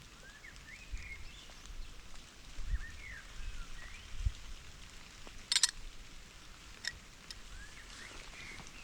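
Steady rain hiss with a few birds calling, brief rising and falling calls heard three or four times. A few sharp taps, the loudest a little after five seconds in, and some low thumps.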